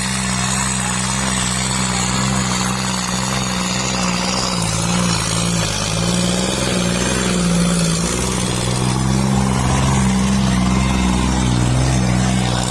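Tractor diesel engine running hard under heavy load, pulling a disc harrow, its low engine note steady but shifting pitch a few times.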